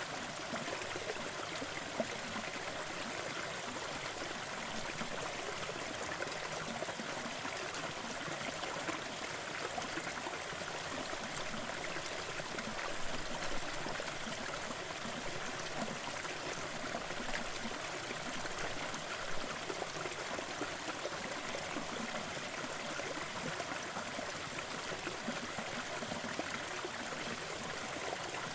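Waterfall and stream water rushing and splashing steadily, a continuous even noise.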